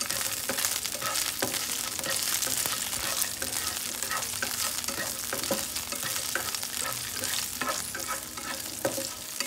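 Green chillies, sliced garlic and fenugreek seeds frying in hot oil in a non-stick pan for a tadka, stirred with a spatula: a steady sizzling hiss with many small pops and scrapes.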